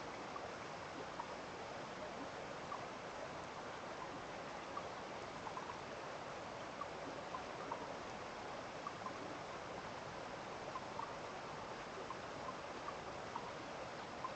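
Steady rush of running water from a small stream, with many faint, irregular plinks of water scattered through it.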